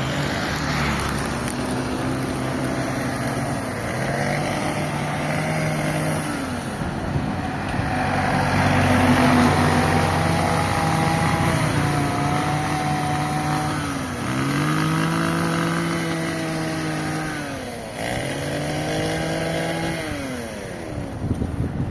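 An engine running continuously, its pitch holding steady for stretches and then dropping and climbing again several times as it slows and speeds up.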